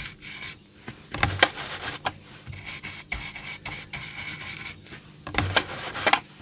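Ink blending brush scrubbing ink onto card: a run of irregular scratchy rubbing strokes, with a few light knocks.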